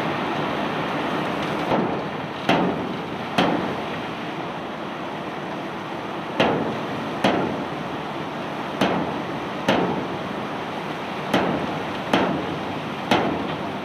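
Cobblestones being unloaded: about ten sharp knocks of stone striking stone or a hard surface, often in quick pairs, over a steady rushing background noise.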